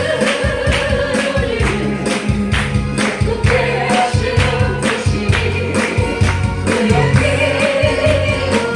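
Korean gospel praise song sung by a group of voices over a live band, with bass and drums keeping a steady beat.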